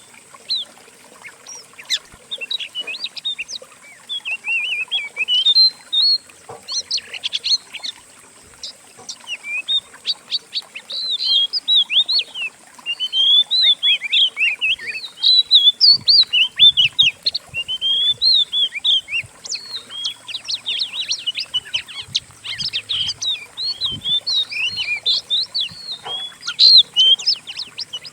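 Several songbirds' songs layered into one continuous medley of fast chirps, trills and short whistled phrases. It is a masteran training track for teaching an oriental magpie-robin (kacer) new song.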